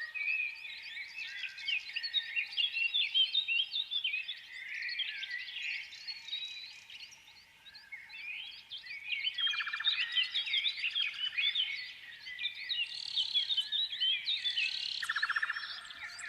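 Many small birds chirping and twittering at once in a dense chorus, with a short buzzy trill about ten seconds in and another near the end.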